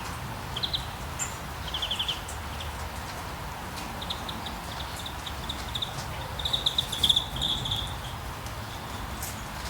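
Rainforest ambience: a steady hiss of rain with a low rumble, and birds chirping in short rapid trills, loudest about seven seconds in.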